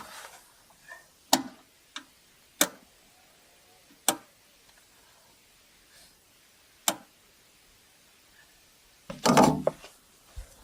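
A few sharp knocks or taps, spaced one to three seconds apart, then a longer clattering burst near the end.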